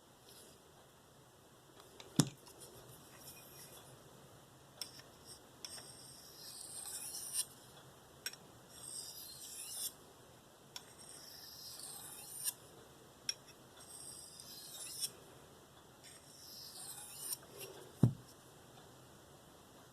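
An S30V knife blade is drawn across a medium ceramic sharpening stone in slow, light passes: about five scraping strokes a couple of seconds apart, each ending in a small tick. These are passes to clean the last burr off the edge. A sharp knock comes about two seconds in, and a louder one near the end.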